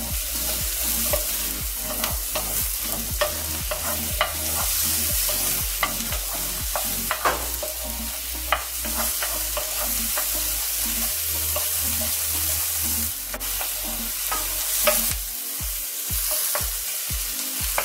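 Sliced mushrooms and diced red onion sizzling in a ceramic-coated frying pan while a wooden spoon stirs them, with irregular scrapes and taps of the spoon against the pan.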